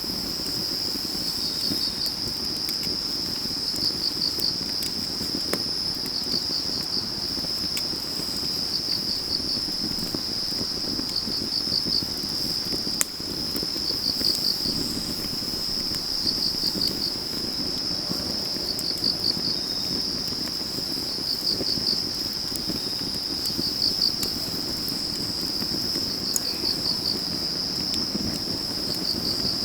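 Crickets chirping in a steady high chorus, with a pulsed trill repeating about every two and a half seconds, over a wood fire crackling with scattered small pops; one sharper pop about 13 seconds in.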